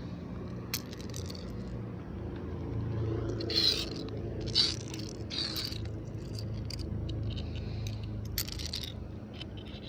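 A few short scraping sounds, four or so, with small clicks between them, over a low steady hum.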